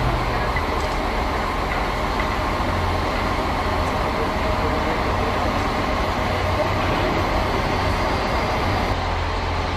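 Steady vehicle noise with a constant low hum and no distinct events.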